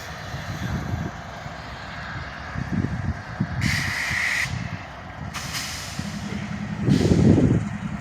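Air brakes releasing in three hissing bursts, the longest about halfway through, over a steady low rumble of heavy vehicles.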